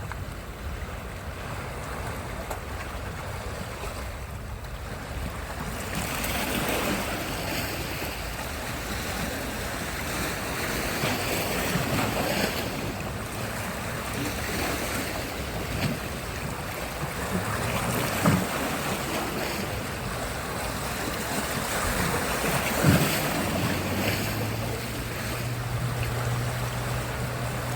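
Sea surf washing onto the shore, with wind on the microphone; the wash grows louder about six seconds in, and a faint steady low hum joins near the end.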